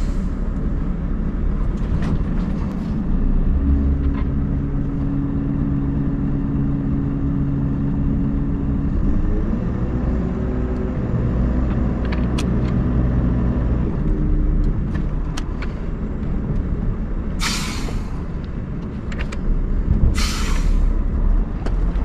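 Scania R580 truck's V8 diesel engine running, its pitch rising about nine seconds in and easing back a few seconds later, with two short blasts of compressed air hissing from the truck's air system near the end.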